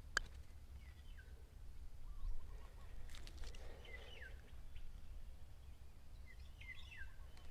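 Birds calling over quiet outdoor ambience, short falling chirps repeating every few seconds. A single sharp click comes about a quarter second in.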